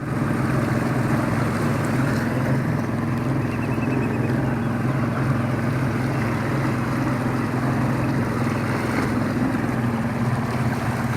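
Boat motor running steadily at an even speed, with a steady low hum throughout.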